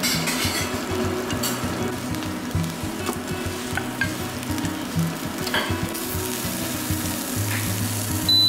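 Chicken pieces sizzling in oil in a nonstick pan, stirred with wooden chopsticks, with a few sharp clicks as the chopsticks and pieces knock the pan. A high electronic beep starts near the end.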